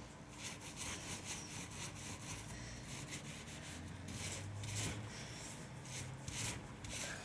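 High-density paint roller being rolled back and forth, applying paint in quick repeated rasping strokes.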